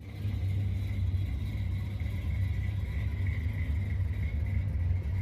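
Car engine idling: a steady low rumble with a faint steady whine above it.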